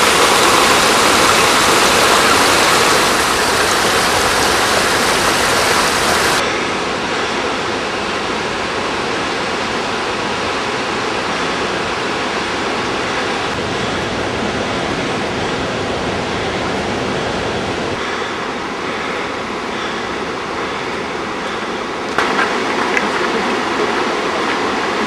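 Krimml Waterfalls, swollen with snowmelt: a steady, loud rush of falling water. About six seconds in it turns quieter and duller, and it grows louder again near the end.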